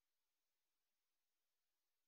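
Digital silence: only a faint, even hiss.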